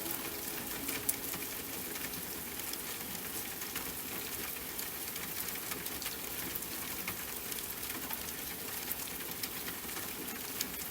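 Steady rain: an even hiss of falling rain with many separate drops ticking sharply against a surface.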